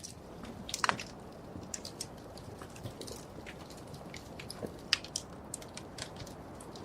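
Wood fire burning in a fireplace: irregular sharp crackles and pops over a soft low hiss, with two louder pops, one about a second in and one near five seconds.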